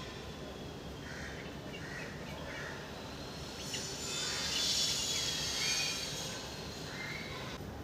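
Small birds giving short soft chirps against outdoor background noise, with a steady thin high tone and a swell of high hiss lasting about two seconds around the middle.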